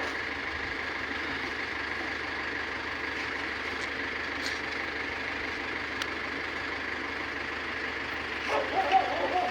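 Recycling truck's engine running steadily.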